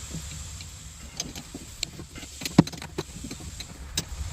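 Scattered small clicks and knocks of parts and tools being handled during work on a mini excavator's hydraulic control lines. One sharper knock comes about two and a half seconds in, over a low steady rumble.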